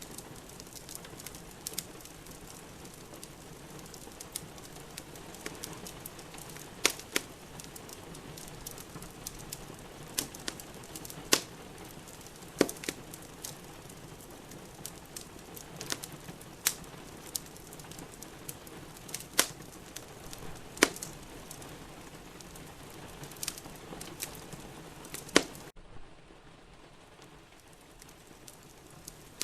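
Wood fire in a fireplace crackling, with sharp pops about once a second, a few of them much louder, over a steady hiss. Near the end the hiss cuts off abruptly and leaves a quieter, duller background.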